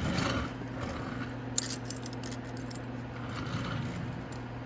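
Light metallic clinks and rattles of fairing bolts and hand tools being handled, with one sharp click about a second and a half in, over a steady low hum.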